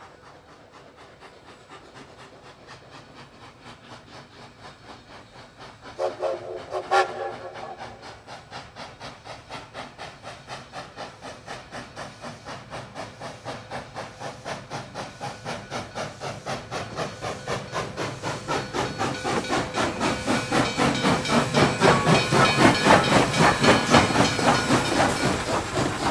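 Steam locomotive approaching, its steady rhythmic beat growing louder, with a whistle blast about six seconds in.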